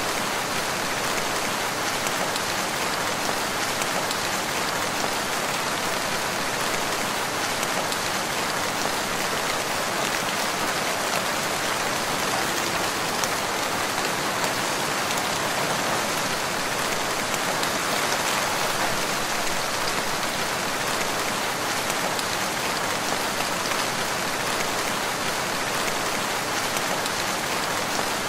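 Steady rain falling, a dense even patter of many drops hitting surfaces.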